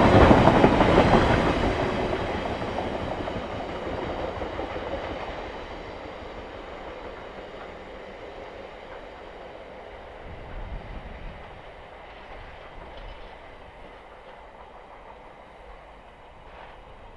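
Container freight train's wagon wheels running over the rails, loud at first and fading steadily as the end of the train draws away.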